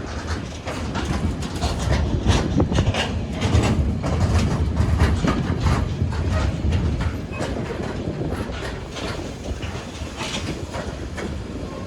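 A train passing at speed, its wheels clattering over the rails in a dense run of clicks over a low rumble, loudest in the first half and easing toward the end.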